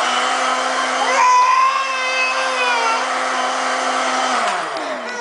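Electric kitchen blender motor running at a steady pitch, then switched off about four seconds in and spinning down with a falling pitch.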